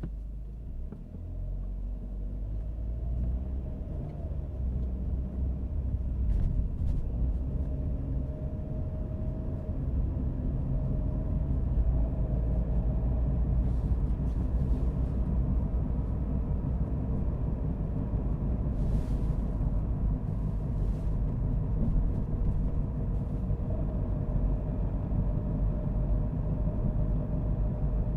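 Car driving: engine and road rumble growing louder over the first ten seconds or so as it gathers speed, then holding steady while cruising, with a faint steady whine.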